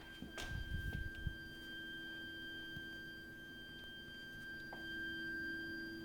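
Heating system's heat interface unit (HIU) and pipework giving off a continuous, shrill, high-pitched whistling tone with a fainter lower hum beneath it: an abnormal plumbing noise fault in the heating system. A few low thuds sound in the first second or so.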